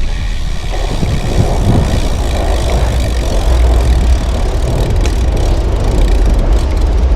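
Motor traffic running alongside a moving bicycle, mixed with heavy wind rumble on the microphone.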